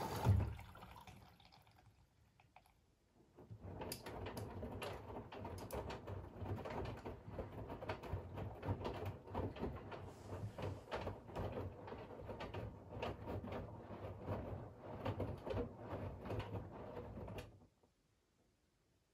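Siemens iQ700 front-loading washing machine early in its wash: the water inflow stops with a low thump. After a short pause the drum turns, and the wet laundry and water slosh and splash irregularly for about fourteen seconds before the drum stops suddenly.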